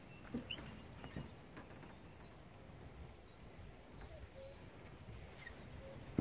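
Quiet outdoor ambience with scattered short bird calls and a couple of soft knocks in the first second or so.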